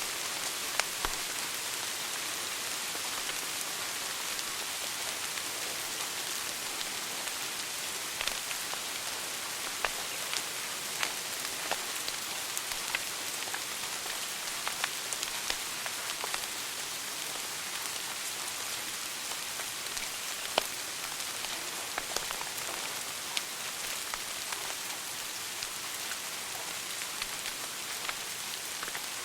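Wood fire crackling in a fireplace: a steady hiss of burning wood with scattered sharp pops and snaps, a few of them louder.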